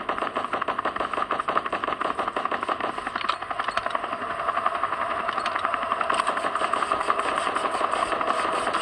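Helicopter rotor chopping steadily: a rapid, even pulsing that holds at one level throughout.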